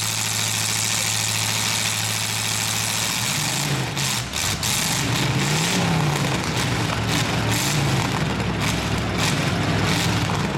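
Demolition derby pickup truck engines running steadily for about three seconds, then revving up and down over and over as the trucks drive and hit each other.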